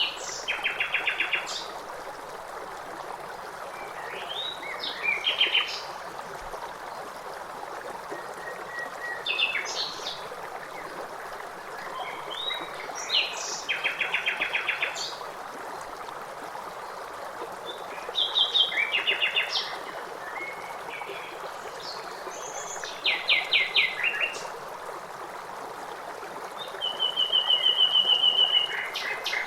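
Songbirds singing short phrases every few seconds, many ending in rapid trills, over the steady rush of a stream.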